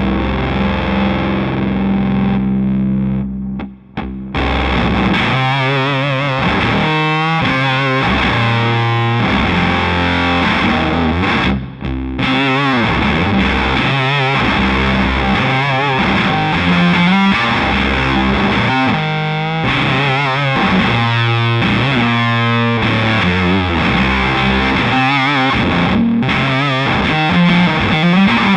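Castedosa double-neck baritone electric guitar played through heavy fuzz distortion: a held chord rings for about three seconds and stops, then riffing with bent, wavering notes, broken once by a short pause near the middle.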